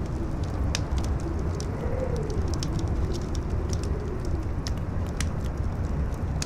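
Campfire crackling with irregular sharp pops, over a strong wind that rumbles steadily and howls with a tone that slowly rises and falls.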